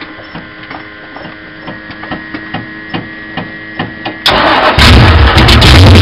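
Cold start of a hobby stock race car's Chevy 355 small-block V8: the engine cranks over with a rhythmic beat, catches about four seconds in, and then runs loud.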